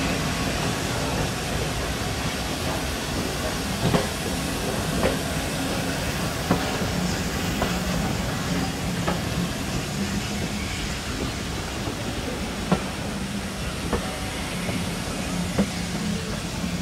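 Passenger coaches of a steam-hauled train rolling past: a steady rumble with a few sharp wheel clicks over rail joints, and steam from the locomotive hissing at first.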